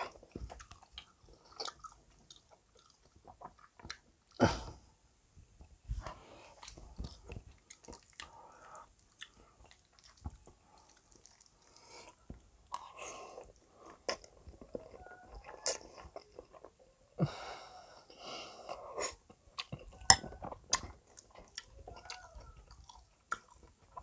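Close-miked chewing and slurping of spaghetti carbonara, picked up by a lapel microphone, with short bursts of mouth sounds and occasional sharp clicks.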